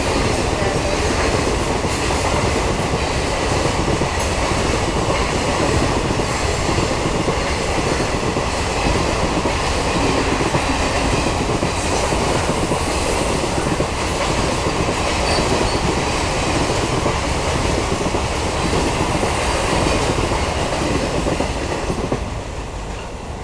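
A train passing close by at a level crossing, its wheels clattering over the rails in a steady loud rumble that starts to fade about a second before the end.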